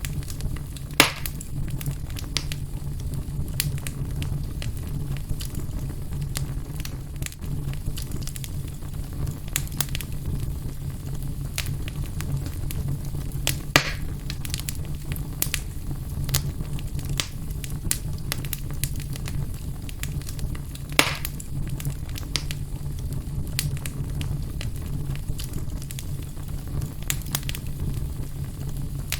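Wood fire burning in a fireplace: a steady low rumble of the flames with scattered crackles and pops. Three sharper pops stand out, about a second in, near the middle, and about two-thirds of the way through.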